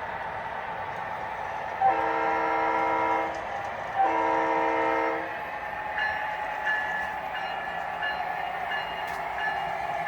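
O scale model locomotive's sound system blowing two horn blasts of about a second and a half each, then its bell ringing about twice a second. Underneath is the steady running noise of the model trains on the track.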